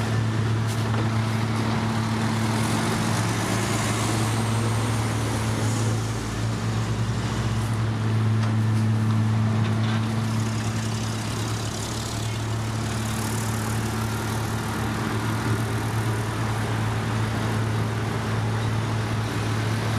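Heavy diesel machinery engine running steadily at a constant speed, a low even hum with no change in pitch.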